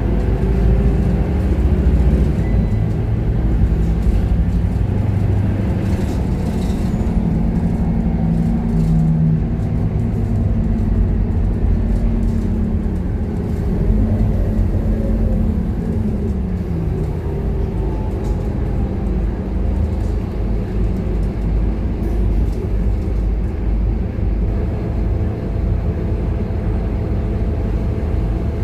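Scania K230UB city bus on the move: the diesel engine and drivetrain running steadily, then the engine note dropping away about halfway through.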